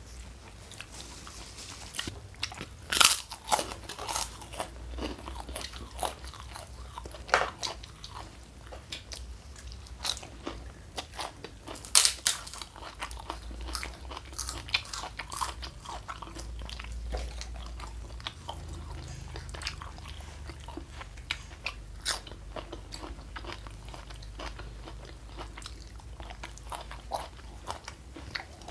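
Close-up eating sounds: crisp crunching bites into crunchy food and chewing, with scattered crunches throughout. The loudest crunches come about three seconds in and again about twelve seconds in.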